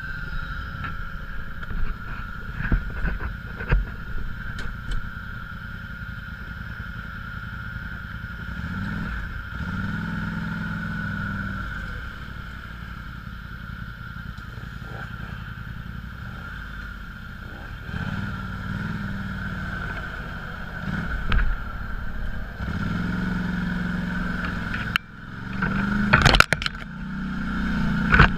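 Off-road vehicle engine running and revving up in several surges, with knocks and rattles from the ride over rough ground.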